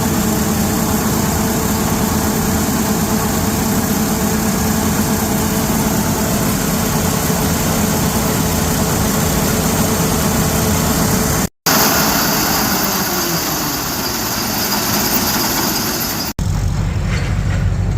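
A machine engine running steadily, with the 2017 John Deere 612FC folding cornhead being run. The sound drops out briefly twice, about twelve seconds in and near the end, and after the second break the engine note is deeper and steadier.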